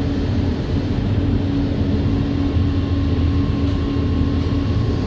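Jakarta LRT light-rail car running, heard from inside the carriage: a steady low rumble with a steady hum over it, and a faint higher tone joining about two seconds in.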